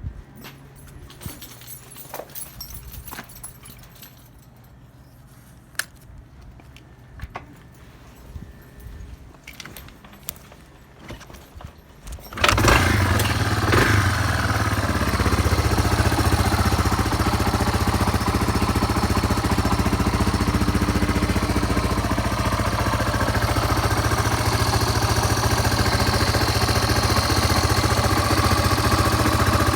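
Small clicks and key-like rattles, then about 12 seconds in a Yamaha Serow 225's air-cooled single-cylinder four-stroke engine, which has no electric starter and is kick-started, catches and runs steadily at idle. It runs without abnormal noises, as the seller describes it.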